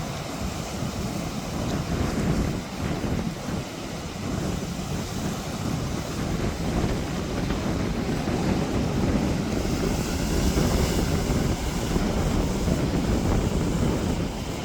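Sea waves washing in, with wind buffeting the microphone; the rush swells about two seconds in and again through the second half.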